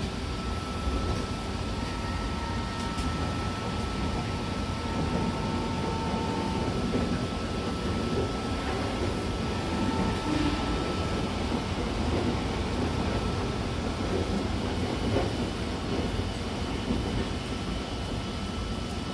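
Odakyu 70000 series GSE electric train running at speed: a steady rumble of wheels on rail, with faint steady whine tones from its full-SiC VVVF traction system; a higher whine comes in near the end.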